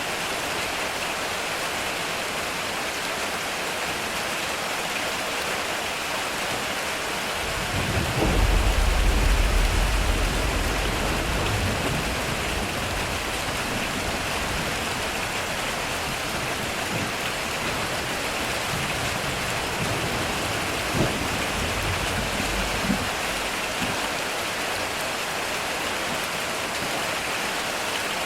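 Heavy rain falling steadily on a metal roof. About a quarter of the way in, a long rumble of thunder rolls in. It is loudest for a couple of seconds, then fades over about fifteen seconds, with two short sharp cracks near its end.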